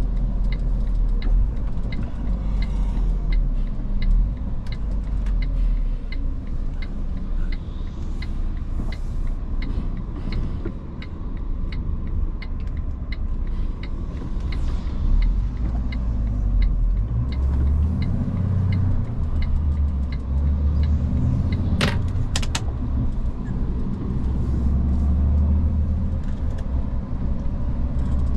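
Iveco S-Way truck on the road: a steady low engine and road rumble whose deep drone shifts in pitch a little past halfway. Evenly spaced light ticks run through the first half, and two sharp clicks come close together a little past two-thirds of the way in.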